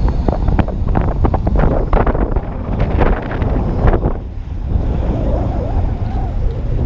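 Strong wind buffeting the camera's microphone, a heavy low rumble throughout, with a run of short knocks and clatter during the first four seconds.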